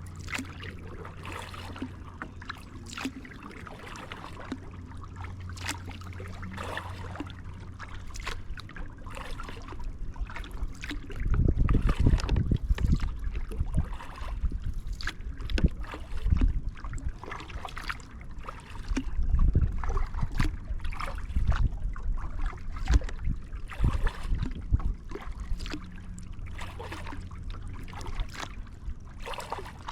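Kayak paddling: the paddle blades dip and splash, water drips and trickles off them, and there are scattered light clicks and knocks. Heavier low rumbling comes in two stretches, about eleven and nineteen seconds in.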